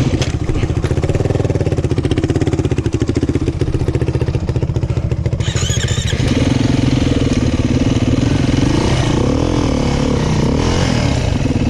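Dirt bike engine running while riding off-road, with a steady pulsing beat. From about halfway through, the pitch rises and falls with the throttle.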